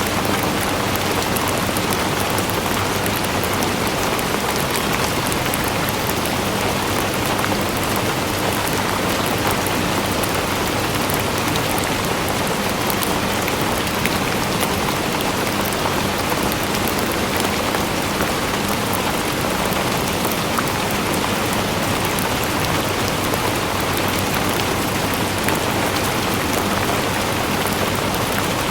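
Steady rain falling and pattering on a surface, with many fine drop ticks and no let-up.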